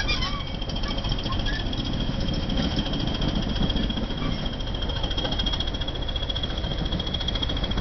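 Class 20 diesel-electric locomotive's English Electric eight-cylinder engine running steadily, a low rumble with a steady high whistle over it.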